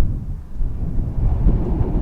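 Wind buffeting the microphone in a snowstorm: a loud, uneven low rumble that rises and falls in gusts.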